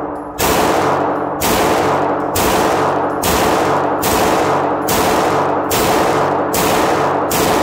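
A 9mm Polymer80 Glock 17-pattern pistol firing a steady string of shots at a moderate pace, a little more than one a second. Each sharp report rings on into the next.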